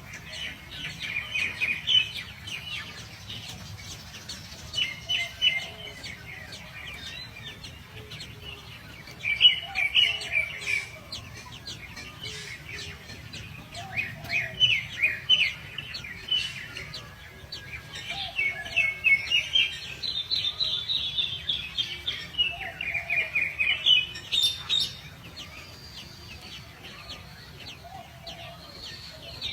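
Small birds chirping in quick runs of high, rapid chirps that come in bouts every few seconds, over a faint low rumble.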